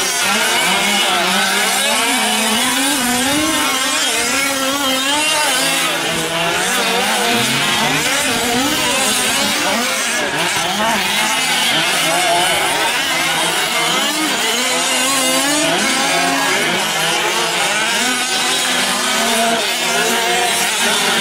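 A pack of fifth-scale gas RC off-road trucks racing, their small two-stroke engines revving up and down over one another throughout.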